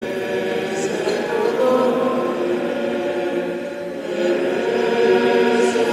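A group of voices singing a French hymn together, in sustained held notes.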